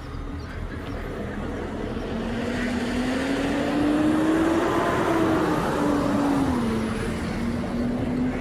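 A motor vehicle passing on the street. The engine tone rises as it gets louder, then drops back as it moves away.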